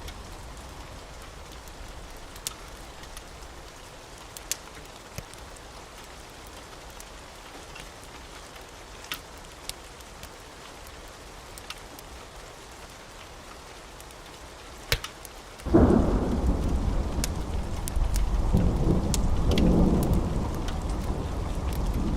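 Wood fire burning with a low hiss and scattered sharp crackling pops. About two-thirds of the way through, a loud deep rumble starts suddenly and goes on, swelling and easing, louder than the fire.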